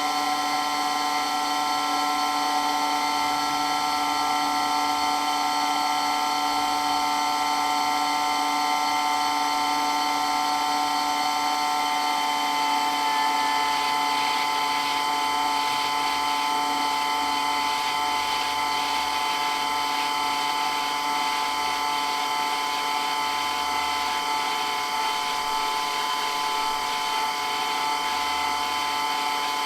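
Water blasting pump running with a steady, high-pitched whine over a hiss. The whine dips slightly in pitch about halfway through.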